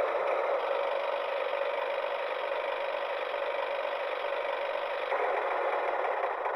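Tractor engine running with a dense, steady rattle in an edited version of the tractor start sound effect. It sounds thin, with the deep low end and the highest treble cut away, and it eases down slightly near the end.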